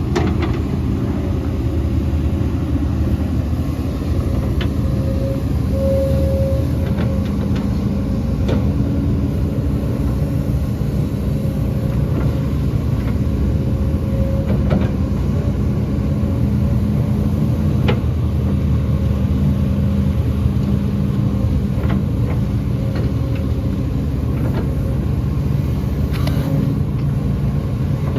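Heavy diesel earthmoving machinery running steadily under load, with a low engine drone and a few short knocks now and then.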